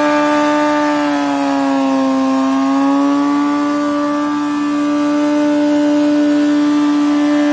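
Motorcycle engine held at steady high revs during a burnout. Its pitch sags slightly about a second in and climbs back by about three seconds.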